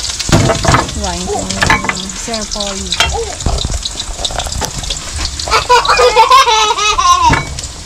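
Pancit canton frying in a wok over an open flame: a steady sizzle with scattered clicks from the pan. Voices talk over it, louder for a couple of seconds near the end.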